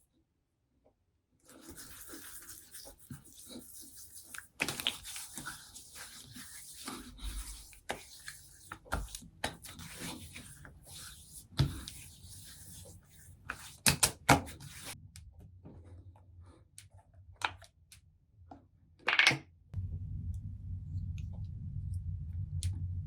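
Household handling noises: rustling and rubbing with scattered clicks and knocks. A steady low hum starts near the end.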